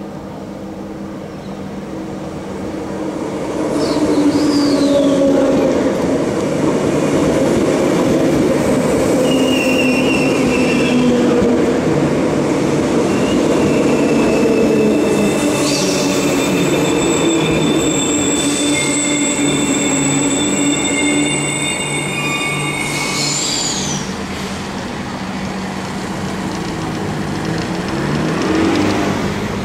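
Transperth A-series electric multiple unit pulling into the platform and slowing as it passes close, its rumble growing louder about a few seconds in. High-pitched squealing from the running gear sets in about a third of the way through and dies away past two-thirds as the train comes to a crawl.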